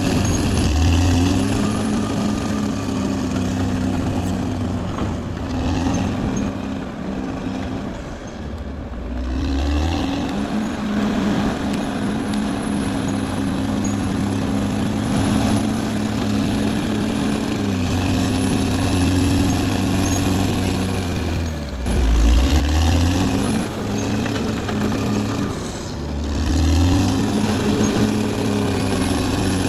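Caterpillar D6R XL bulldozer's diesel engine running steadily. Its engine note dips and recovers several times, about a third of the way in, then twice more near the end.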